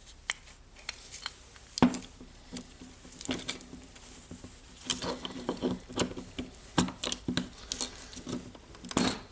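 Irregular clicks and light knocks of small metal parts being handled and pressed together as a ball bearing is fitted into the housing of a cordless rotary hammer, with a sharper knock about two seconds in and another near the end.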